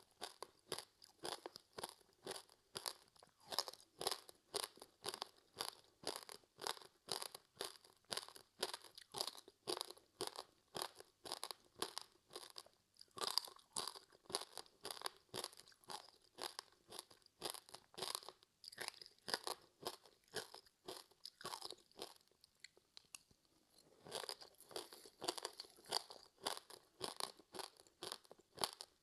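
Close-up chewing of a crispy seaweed-wrapped rice snack: steady crunching at about two to three crunches a second, with a short pause about three-quarters of the way through.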